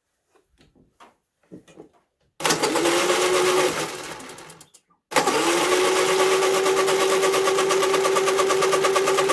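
Honda EU3000iS generator engine spun over with its spark plug out, twice: a short burst about two and a half seconds in that winds down, then a longer run from about five seconds that rises quickly to a steady whine with fast, even ticking. Faint handling clicks come before it.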